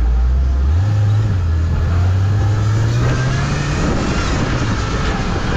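Off-road sprint car's engine under hard acceleration. Its note jumps up just under a second in and climbs steadily, then drops sharply nearly four seconds in at a gear change and carries on pulling.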